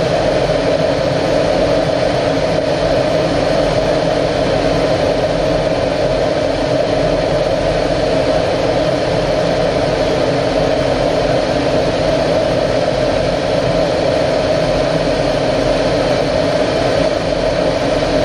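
Aero L-39 Albatros jet's engine running with a steady, loud, unchanging drone and rush.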